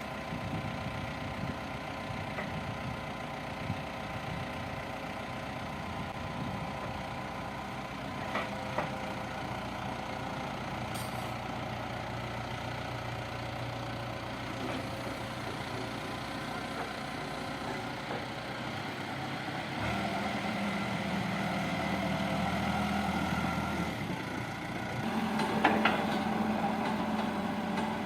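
Diesel engine of an earthmoving machine running steadily, its pitch rising and getting louder about twenty seconds in as it is revved, with a few short knocks of metal along the way.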